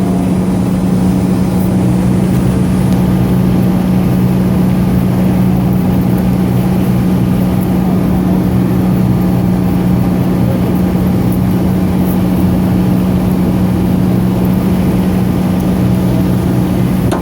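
An engine running steadily at idle: a constant low hum that does not change in pitch or level.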